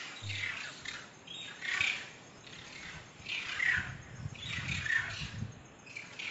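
A bird's harsh, squawking calls, about five of them, repeated roughly once a second.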